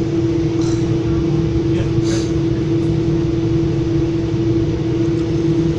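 Steady interior noise of a Metra commuter train coach under way: a low rumble with a strong, even hum running through it.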